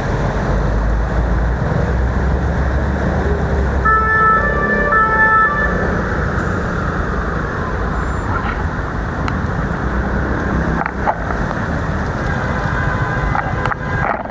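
Steady rushing noise of a bicycle ride through heavy rain among road traffic. About four seconds in, a two-tone emergency vehicle siren sounds briefly, alternating between two pitches.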